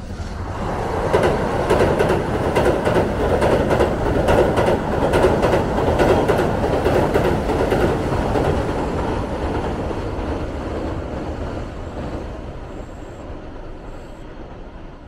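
Keihan electric train crossing a steel truss bridge: a heavy rumble of wheels and girders with a quick run of wheel clacks. It swells in the first second or so, peaks through the middle and fades slowly over the last several seconds as the train moves away.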